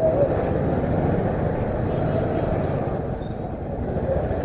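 Hero HF Deluxe 97cc single-cylinder motorcycle riding slowly through congested traffic: a steady mix of engine and road noise.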